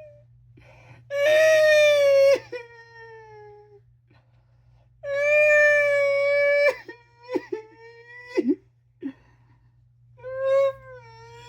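Three long, high wailing cries from a voice, each held steady and then sagging in pitch, with short yelps between them: mock grieving.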